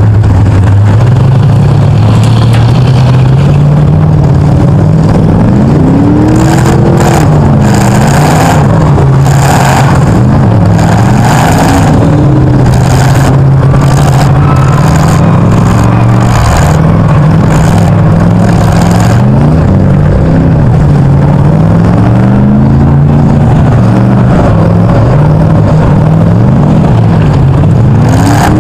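Demolition derby car engines running loud, revving up and down again and again, with scattered knocks and bangs of metal.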